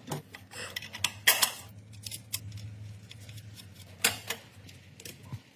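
Metal hand tools clinking and knocking against metal car parts in a few separate sharp strikes, with the two loudest about a second in and about four seconds in.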